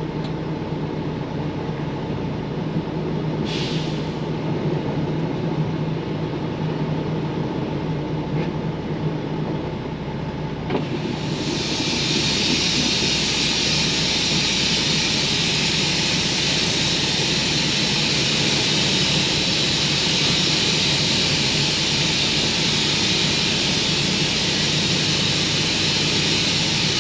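Freightliner Coronado truck's diesel engine idling steadily, with a short burst of air hiss about three seconds in. About eleven seconds in, a loud, steady hiss starts and keeps on over the engine.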